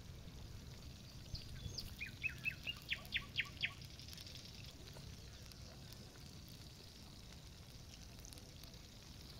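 A songbird sings one short phrase of about ten quick, rising-in-loudness notes a second or so in, over a low steady background rumble.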